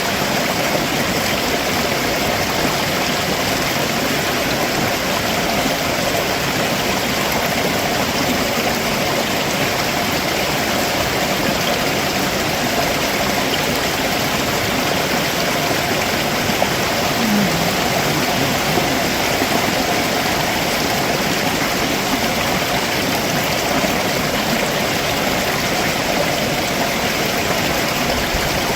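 Stream water rushing and splashing steadily over rocks below a waterfall, an even, unbroken roar of moving water.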